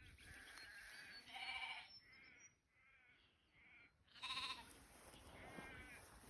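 Sheep bleating several times, faintly, the loudest call about four and a half seconds in.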